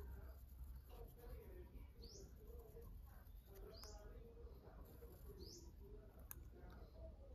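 Near silence with a small bird chirping faintly three times, each a short rising note about two seconds apart, and a single sharp click near the end.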